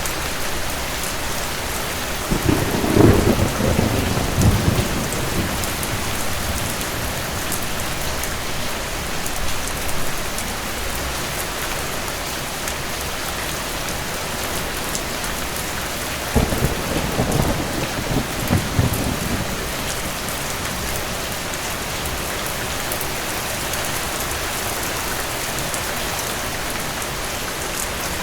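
Steady rain with two rolls of thunder, one about three seconds in and another about sixteen seconds in, each rumbling for a few seconds.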